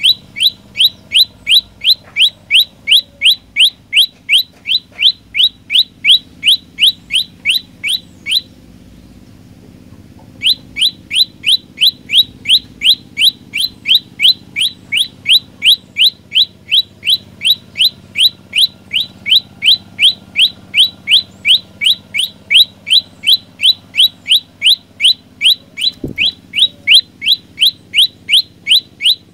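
Prenjak lumut singing a fast, loud, repeated call: short rising chirps at about three a second. There is a pause of about two seconds early in the passage, then the same rhythm resumes.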